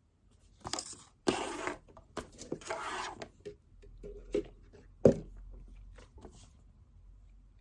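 Desk handling noises: papery rustling and scraping for a couple of seconds, then a few light clicks and one sharp knock about five seconds in, as of an object set down on the desk.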